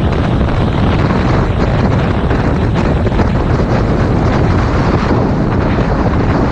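Loud, steady wind buffeting on a GoPro Hero 5 Black's microphone at riding speed, with a motorcycle running beneath it: a 2019 Yamaha MT-07 with its parallel-twin engine, mostly drowned out by the wind.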